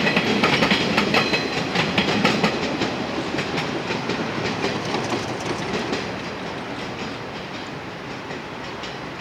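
Freight wagons of a passing train rolling by, their wheels clicking over the rail joints. The clicking is dense and loud at first, then fades steadily as the train draws away.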